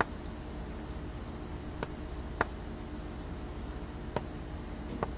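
Room tone with a low steady hum and a handful of faint, sharp clicks scattered through it.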